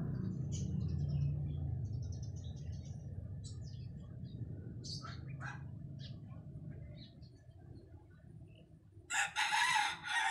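Scattered short bird chirps over a low rumble that fades away, then a loud bird call of about two seconds near the end.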